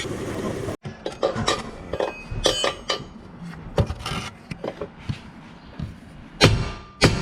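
Irregular light metallic clinks and knocks. Near the end, a run of sharper, fairly evenly spaced knocks starts.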